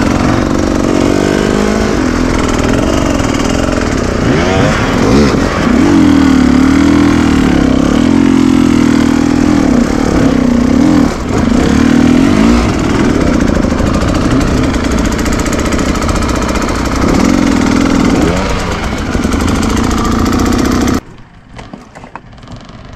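Enduro motorcycle engine revving up and down repeatedly, its pitch rising and falling as the throttle is worked. The engine sound cuts off abruptly near the end, leaving only faint noise.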